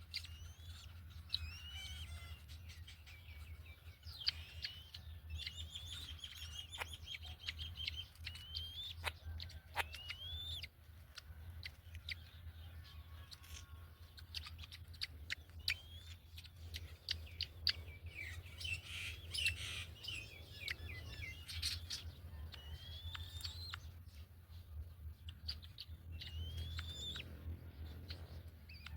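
Birds calling: repeated short whistled chirps that rise and fall in pitch, with scattered sharp clicks over a steady low hum.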